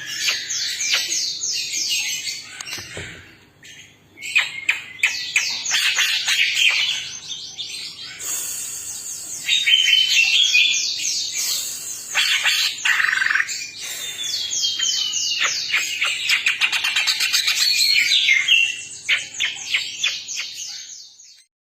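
Cucak ijo (green leafbird) singing: long runs of fast, chattering trills and slurred whistles, with a short break about four seconds in.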